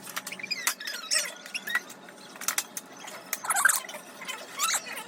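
Small plastic toy cars and track pieces clicking and clattering as they are handled, with scattered short, high squeaks.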